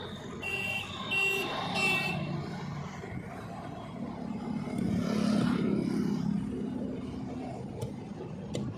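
Highway traffic: a vehicle passes, its engine and tyre noise swelling and fading about halfway through. Near the start come three short high beeps, evenly spaced.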